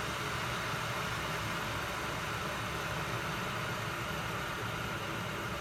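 Aicok 1.7-litre stainless steel electric kettle heating water, a steady noise as it nears the boil.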